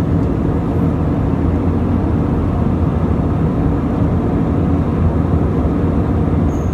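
Steady, even drone inside the cabin of an Airbus A320 in flight: engine and airflow noise, strongest in the low range.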